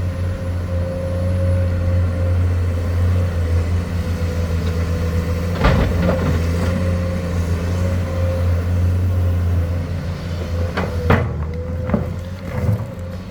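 Komatsu excavator's diesel engine running steadily with a constant low drone and a steady higher whine, with a sharp knock about halfway through and a quick cluster of knocks near the end.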